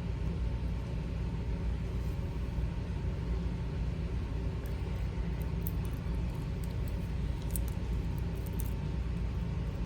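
Steady low background rumble with a faint steady hum, and a scatter of faint light ticks in the second half.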